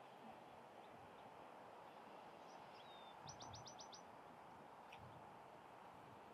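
Faint outdoor ambience with a bird calling: a short high whistle about three seconds in, then a quick run of about six high chirps.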